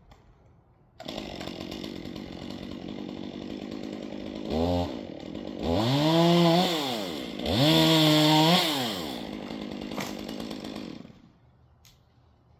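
Chainsaw starts about a second in and idles, is revved up three times (a short blip, then two longer revs that rise, hold and fall back), and cuts off near the end.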